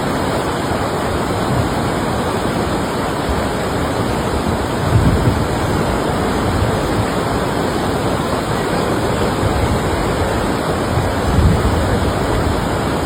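Floodwater rushing in a steady, continuous wash of noise, with brief low swells about five seconds in and near the end.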